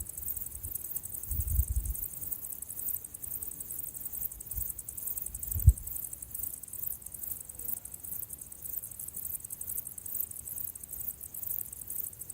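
Insects chirring, a high, fast and even pulsing trill that never lets up, with a couple of soft low thumps about a second and a half in and again near six seconds.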